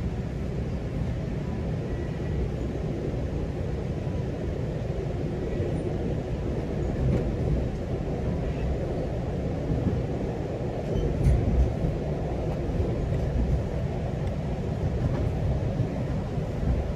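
GO Transit commuter train heard from inside a passenger coach while running between stations: a steady low rumble of wheels on the rails, with a few louder jolts about eleven seconds in.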